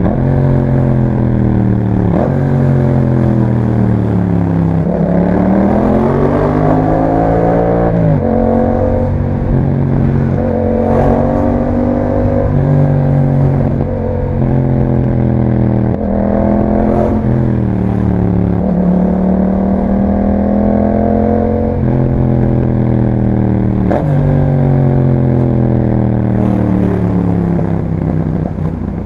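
Yamaha MT-07's parallel-twin engine breathing through an Akrapovič exhaust while riding: its pitch climbs and sinks as the rider accelerates and rolls off. It jumps abruptly at several gear changes.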